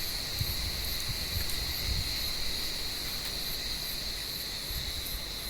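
Cicadas calling: a steady, high-pitched drone that holds without a break.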